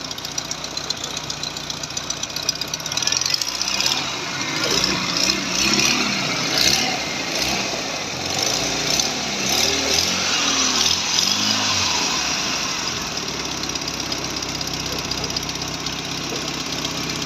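Massey Ferguson 265 tractor's diesel engine running steadily, with a thresher driven from it. Its sound swells and wavers from about three seconds in, then settles back to a steady run.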